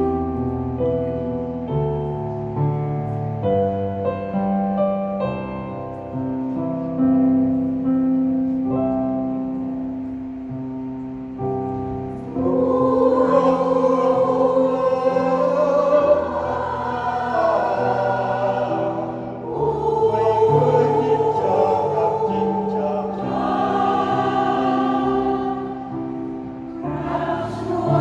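A piano plays an introduction alone, then a senior choir comes in about halfway through, singing in harmony with the piano accompanying.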